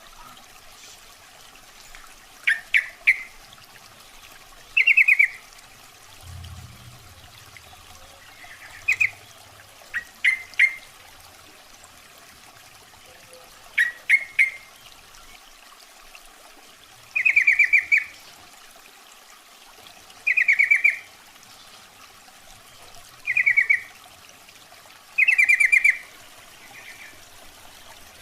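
Yellow-vented bulbul calling: about nine short chattering calls, repeated every two to four seconds, some broken into two or three quick notes. It is a lure call, said to be a female bulbul calling to males.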